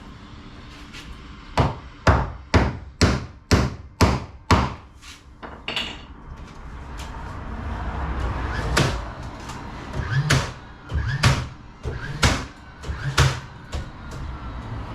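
A hammer striking repeatedly during garage door installation work: a quick run of about eight blows, roughly two a second, then a few slower, spaced blows later on.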